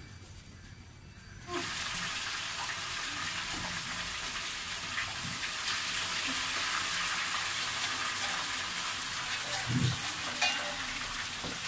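Oil sizzling steadily as food deep-fries in a wok, starting suddenly about a second and a half in, with a few knocks of a ladle stirring in the pan.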